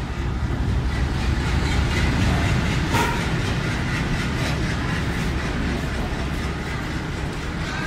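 Diesel-hauled express train with ICF coaches arriving along a platform: the locomotive and then the coaches roll past in a steady heavy rumble, wheels clattering over the rail joints, with one sharper clack about three seconds in.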